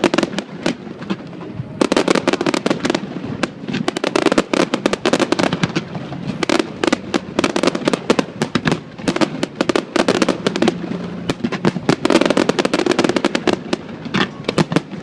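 Aerial fireworks display: dense volleys of sharp bangs and crackles in rapid succession, with a short lull about a second in before the barrage resumes.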